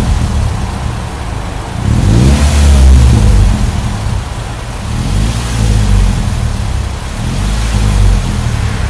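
Toyota Vios NCP93's four-cylinder engine through a Fujitsubo Wagolis aftermarket exhaust, with a low, deep note. It is blipped once hard about two seconds in, then given two smaller blips, settling back toward idle between them.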